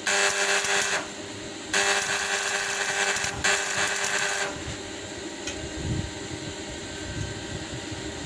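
Small electric power tool, drill-like, running in three short bursts of about one to one and a half seconds each with brief pauses between, then stopping.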